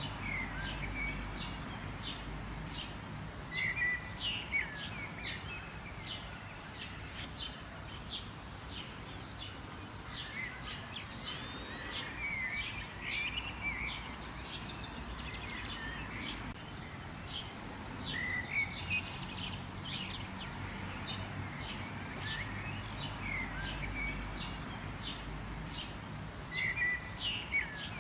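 Wild songbirds chirping and calling, with many short, quick high notes and brief trills throughout, over a low steady background rumble.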